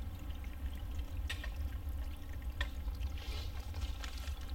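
Footsteps rustling through wet fallen leaves and twigs, with a few sharp snaps, over a small forest stream trickling and a steady low rumble.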